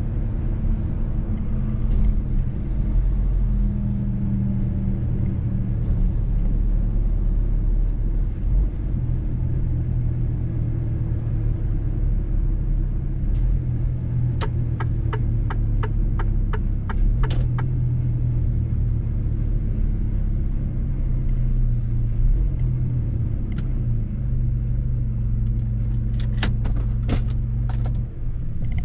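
Mercedes-Benz truck driving along: a steady low engine and road drone whose pitch shifts a few times. Halfway through comes a quick run of about ten clicks, about three a second, and a few more clicks come near the end.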